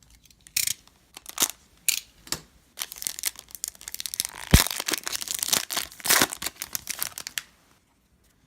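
Trading cards and their pack wrapper being handled: irregular crinkling and rustling, with one sharp click a little past halfway through.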